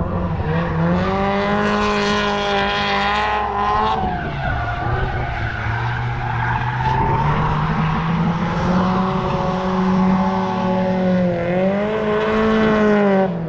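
Drift car's engine running hard, its pitch holding, dropping and climbing again as the throttle is worked, with skidding tyre noise under it.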